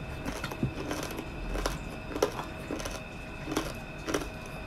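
Close-miked chewing of crispy pata, deep-fried pork knuckle: irregular crunches and mouth clicks, a few to a second, as the fried skin and meat are chewed.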